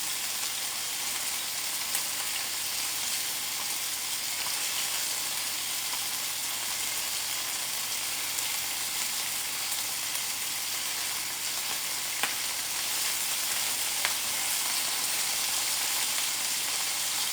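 Chicken tenders frying in a skillet of hot oil: a steady sizzle, with a few sharp pops as the oil spits.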